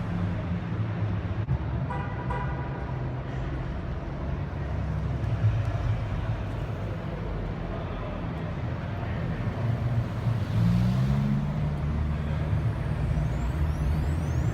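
A car's engine and road noise as it drives along, with a short high tone about two seconds in. Around ten seconds in the engine rises in pitch as the car accelerates.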